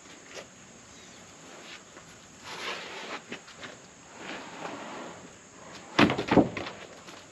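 A freshly sawn oak slab scraping as it is dragged off the sawmill log, twice, then a few heavy wooden thuds near the end as it comes down.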